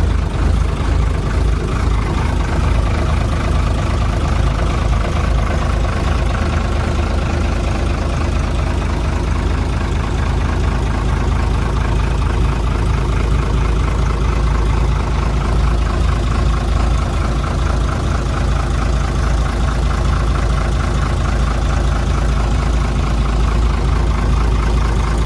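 Yamaha FG36 boat's N23 200-horsepower engine running steadily, a loud deep drone that holds even throughout.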